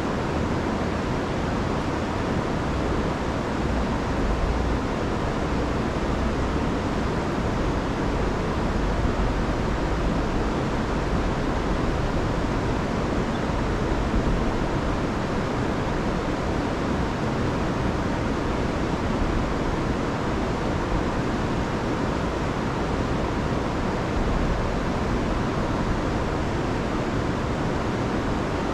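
Rain-swollen river rushing over a waterfall, high after a week of rain: a steady, unbroken wash of water noise with a deep low rumble.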